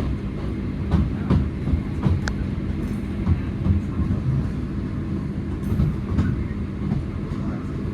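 Class 323 electric multiple unit heard from on board, rolling along the track with a steady low rumble and scattered clunks of the wheels over rail joints, slowing into a station.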